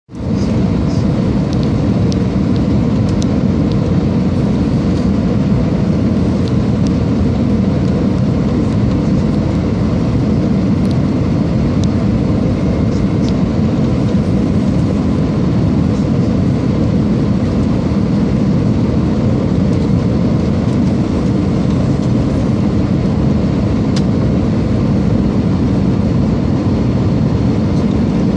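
Steady rumble of an Airbus A320's engines and airflow heard inside the passenger cabin on approach, with a few faint clicks.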